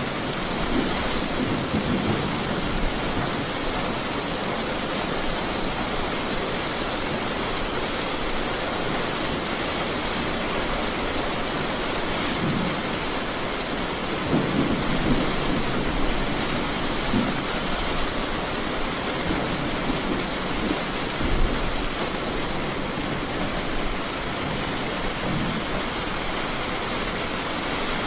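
Steady rain in a thunderstorm, a constant even hiss, with low rolls of thunder swelling in several times, the longest about halfway through.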